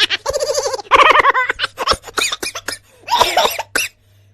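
High-pitched laughter in several quick bursts of rapid, breathy pulses, dying away near the end.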